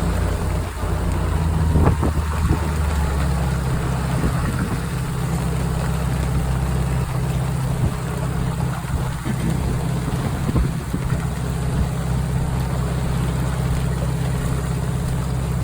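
Sailing yacht's engine running at a steady low drone, with a few brief knocks about two seconds in.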